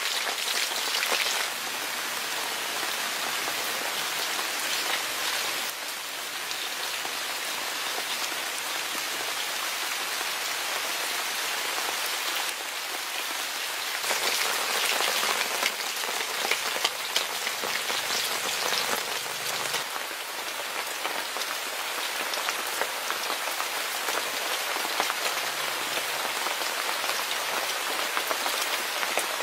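Food sizzling in a hot pan: a steady crackling hiss, a little louder for a few seconds around the middle.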